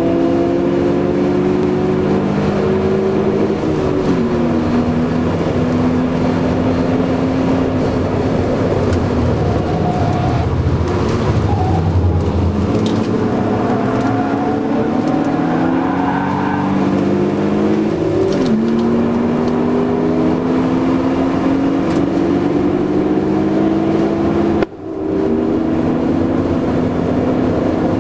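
BMW Z3 2.8's straight-six engine heard from inside the cabin under hard acceleration on track. Its pitch climbs steadily and drops at gear changes about four seconds in, about eighteen seconds in and near the end, where the sound briefly dips. Road and wind noise run underneath.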